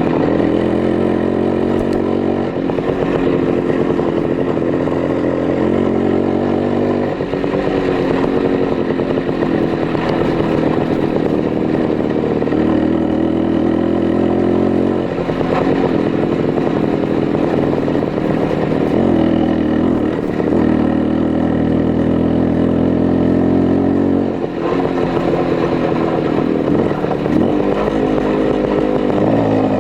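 Minsk 125's single-cylinder two-stroke engine running, its pitch stepping up and down every few seconds as the revs change.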